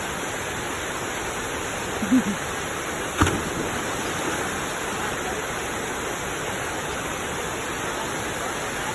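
Waterfall rushing, a steady wash of falling water. A short voice sound comes about two seconds in and a single sharp knock about a second later.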